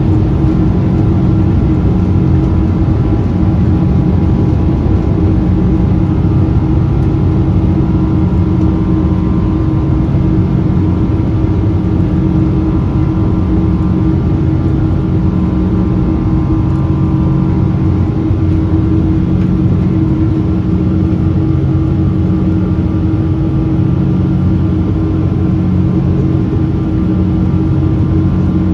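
Boeing 777 jet engines running at takeoff thrust, heard inside the passenger cabin as a steady, loud drone with a constant hum and a low, rhythmically beating throb; some higher whining tones fade about eighteen seconds in.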